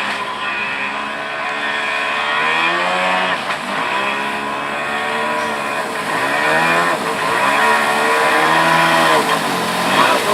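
Jet ski engine running hard, its pitch dipping and climbing back up several times as the throttle and load change, over a steady rush of noise.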